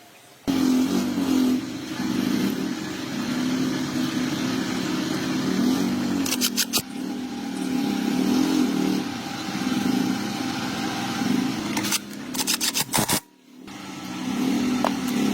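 Small motorcycle engine running and being revved up and down, its pitch rising and falling repeatedly, with a few bursts of sharp clicking and abrupt cuts.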